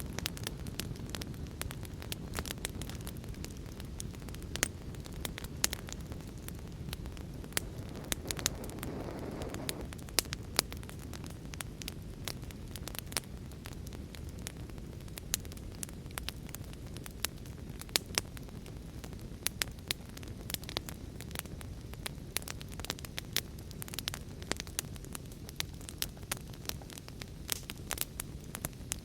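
Fire crackling in a fireplace: irregular sharp pops and snaps over a steady low rumble of the flames, with a short hiss about eight seconds in.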